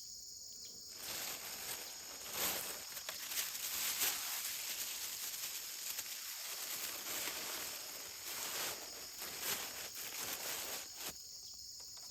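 Crickets or other insects chirping in a steady high drone. From about a second in until shortly before the end, a broad rustling, crackling noise from an unclear source lies over them and is louder than the insects.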